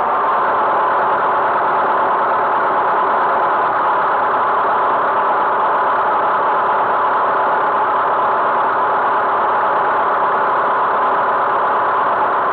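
Tractor engine running steadily: a constant, unchanging drone.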